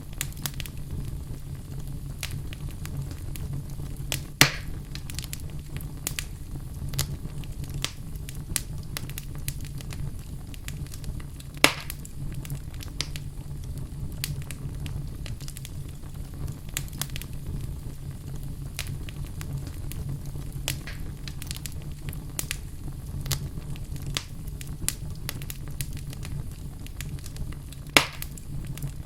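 Wood fire burning in a fireplace: a steady low rumble of flames with continual small crackles and three louder pops of burning logs.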